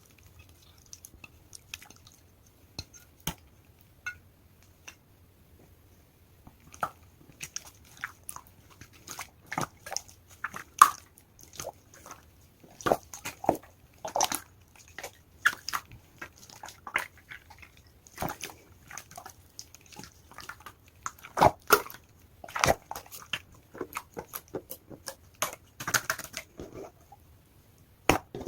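Hands squishing and stretching a large clear slime, making irregular wet clicks and pops. They are sparse at first and come thick and fast from about six seconds in.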